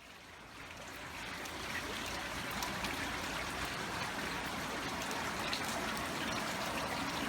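Water trickling and splashing, a steady rushing haze with faint ticks that fades in over the first second or so.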